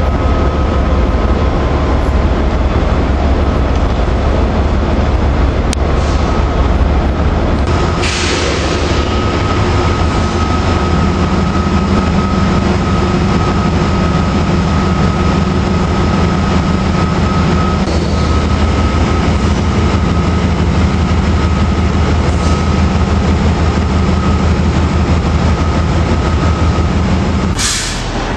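Train running on the rails: a loud, steady rumble with a faint steady tone above it, and a brief hiss about eight seconds in.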